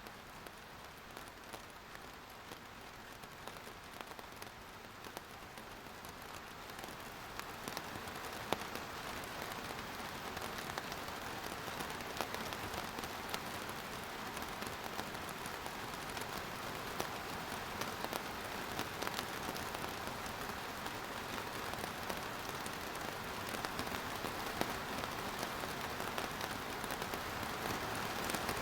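Rain falling, a steady hiss with scattered sharp drop impacts, growing heavier over the first several seconds and a little heavier again near the end.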